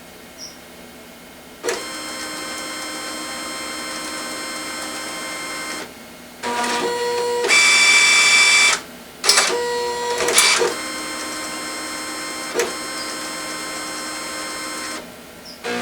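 Inkjet printer's carriage and paper-feed motors whining in several stretches as it runs through its start-up or feed cycle. The whine begins about two seconds in, breaks off briefly a few times, is loudest in the middle and stops shortly before the end.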